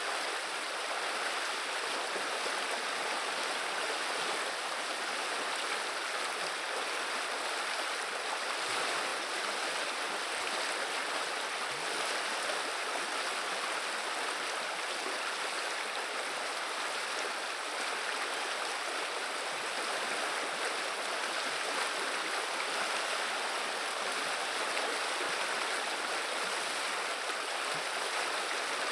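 River water running and babbling steadily, an even rushing murmur with no breaks.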